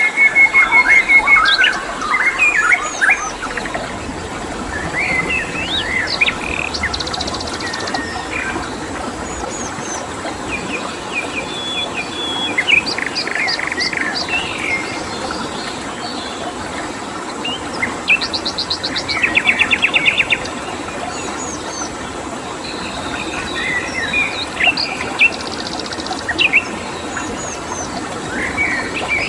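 Several songbirds chirping and trilling, with quick rattling note series every few seconds, over a steady rush of flowing water.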